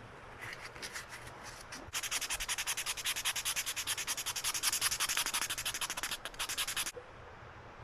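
Sandpaper rubbed back and forth by hand over a moose-antler knife handle. A few light strokes come first, then about two seconds in a quick, even run of louder rasping strokes, roughly five a second, which stops a second before the end.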